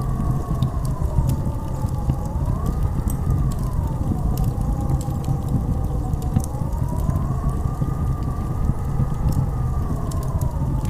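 Howling blizzard wind: a deep steady rumble with a whistling tone that slowly rises and falls, swelling twice. Scattered faint crackling clicks sound over it.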